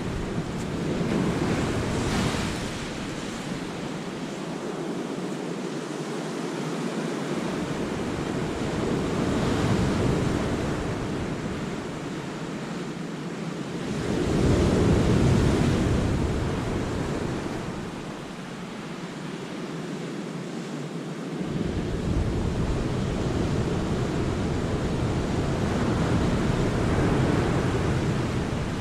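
Sea waves breaking on the rocks of a small cove, a constant wash of surf that swells and ebbs every several seconds, loudest about halfway through. A low wind rumble on the microphone drops out and returns several times.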